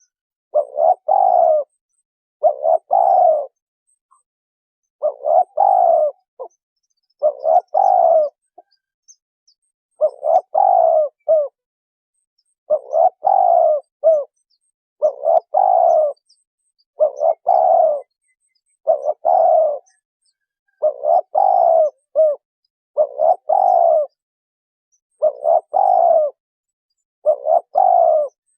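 Spotted dove cooing: short phrases of two or three low coo notes, repeated about every two seconds, with silence between them.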